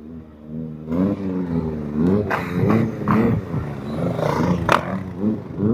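Car engine being revved repeatedly, its pitch rising and falling in a string of blips.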